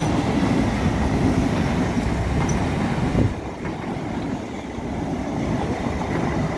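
Electric suburban local train (EMU) passing close by: a steady noise of wheels running on the rails, a little quieter after about three seconds.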